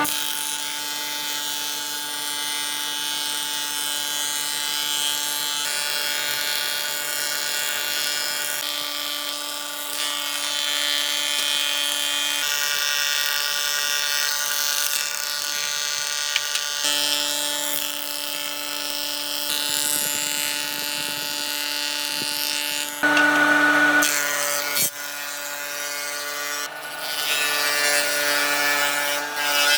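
Electric power tool motor running steadily with a pitched whine while working wood, the sound changing abruptly several times.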